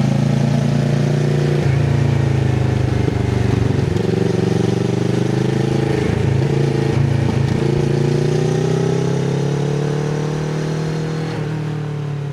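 Kawasaki Z650RS parallel-twin engine through an aftermarket IXIL full exhaust with the dB killer fitted, running steadily under way. Its pitch rises and falls slightly, and the sound fades toward the end.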